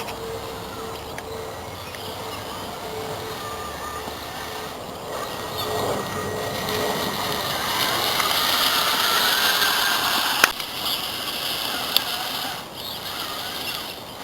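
Homemade RC trial truck's motor and gear drive whining as it drives, getting louder and rising in pitch past the middle, with two sharp clicks near the end.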